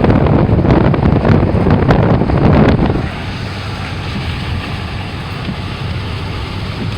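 Wind buffeting the microphone: a loud, low rumbling noise that eases off about three seconds in and continues more quietly.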